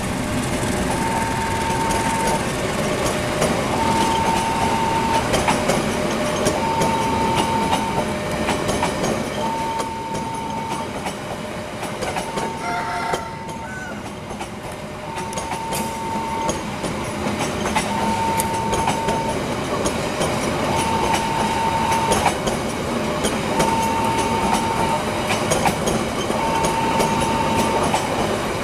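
Passenger train coaches rolling past close by, the wheels knocking over the rail joints in a busy clatter. A repeating warning beep sounds throughout, one long beep about every second and a half.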